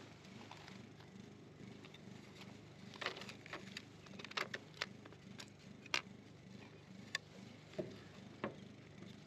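Light clicks and taps from hands handling wooden hive frames, comb and rubber bands, with a cluster of sharper ones between about three and seven seconds in, over a faint steady low hum.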